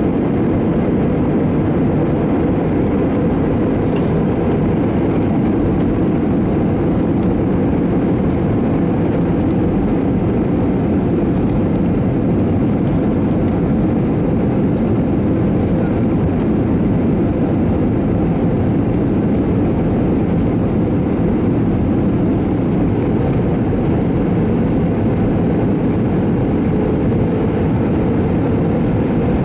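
Steady drone of an Airbus A321 in flight, engines and airflow heard from inside the aircraft, with no change in pitch or level.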